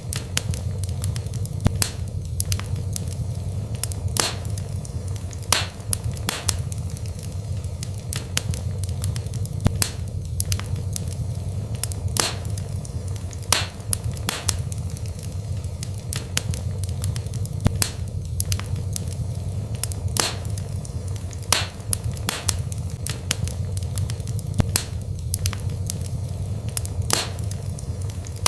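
Wood fire burning in a fireplace: irregular sharp crackles and pops, some louder ones every second or two, over a steady low rumble.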